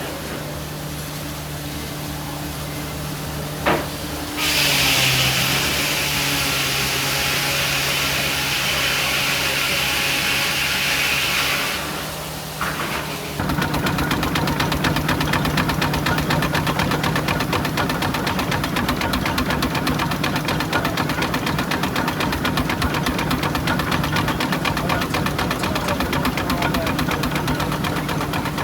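Engine-driven machinery running steadily, with a loud hiss for about seven seconds starting about four seconds in. From about halfway through, a fast, even rhythmic clatter takes over.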